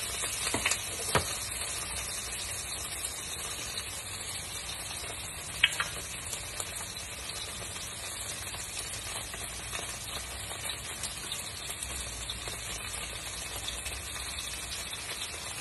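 Salmon fillets sizzling steadily as they fry in a hot pan, with a single sharp click about five and a half seconds in.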